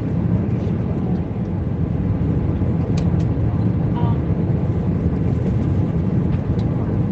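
Airbus A320 cabin noise in flight: a steady low roar of engines and airflow. A couple of faint clicks come about three seconds in.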